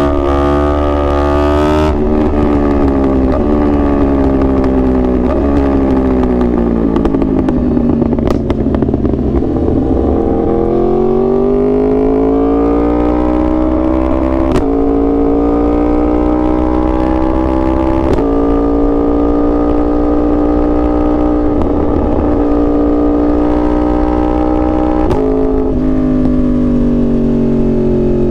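2021 Yamaha R1's crossplane inline-four engine under way. Its pitch falls off over several seconds, climbs again about ten seconds in, holds fairly steady, and eases down near the end.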